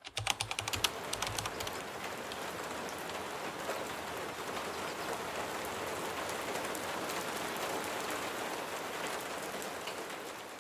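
Steady rain falling, with a quick run of sharp drip taps in the first second or two; it fades out near the end.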